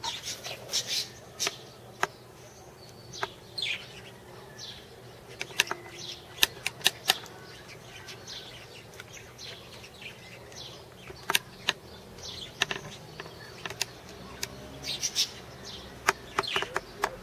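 Birds chirping in short notes that slide downward, with scattered sharp clicks and a faint steady low hum underneath.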